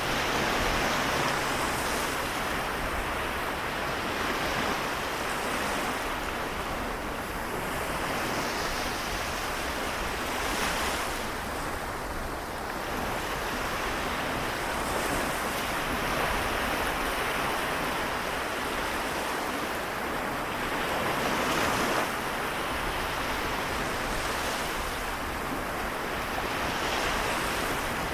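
Small sea waves washing on the shore of the Seto Inland Sea, a steady rush that swells and eases every few seconds.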